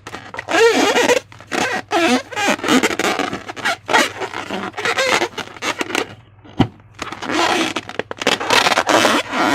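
Transparent balloon being handled: its rubber squeaks and rubs in irregular bursts, with a sharp click about two-thirds through and denser rubbing near the end.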